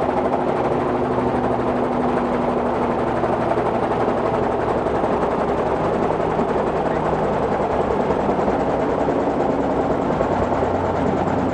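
Robinson R44 helicopter running, its piston engine and rotor making a steady drone with a fast, even chop from the blades.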